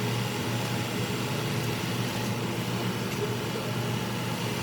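Car running with a steady low hum, heard from inside the cabin.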